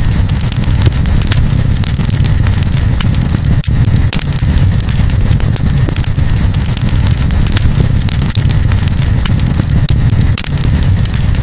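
Campfire crackling, with scattered small snaps and pops over a steady deep rumble. Short high chirps recur roughly once a second.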